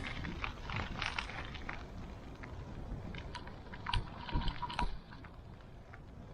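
Wind buffeting a handheld camera's microphone during a bicycle ride, with scattered clicks and rattles from the bike. A faint high tone sounds about three and a half seconds in and stops at about five seconds, where the rumble also drops.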